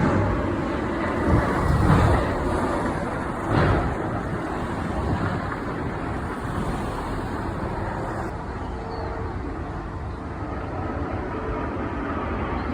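Wind buffeting the microphone over a steady distant rumble, the gusts strongest in the first four seconds.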